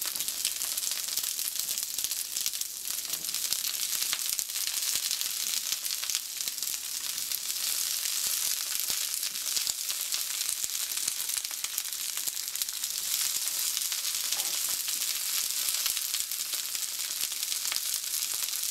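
Asparagus spears frying in hot oil in a skillet over medium-high heat: a loud, steady sizzle, a high hiss flecked with fine crackles.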